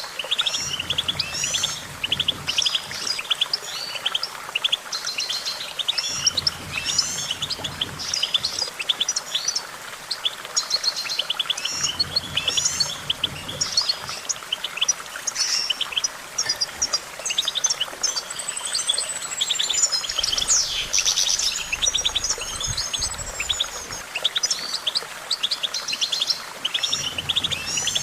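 European goldfinch singing: an unbroken run of rapid twittering trills and chirps, with a few sweeping up-and-down notes around the middle.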